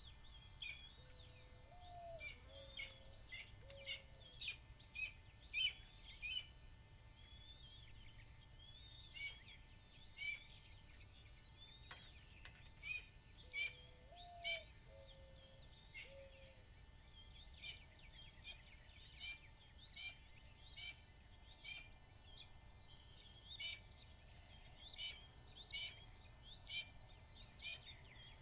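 Birds calling outdoors: rapid, repeated high chirps through the whole stretch, with a low call of four or five short notes heard twice.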